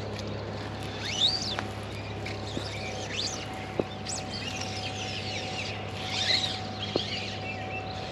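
Birds chirping: short, quick sweeping calls every second or two, with a couple of sharp clicks, over a steady low background hum.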